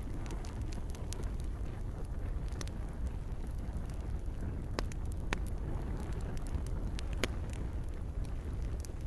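Wood campfire crackling, with scattered sharp pops and snaps over a steady low rush of flames and gentle rain.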